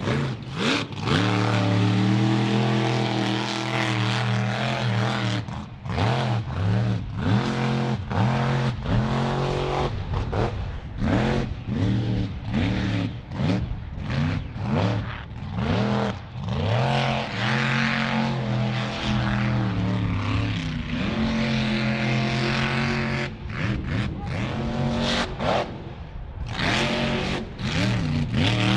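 Mud truck's engine running at high revs, its pitch repeatedly rising and falling as the throttle is worked, held steady in between.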